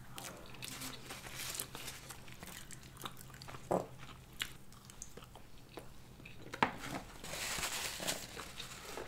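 Close-miked eating sounds: biting and chewing, with scattered small crunchy clicks and a brief soft hiss about seven to eight seconds in.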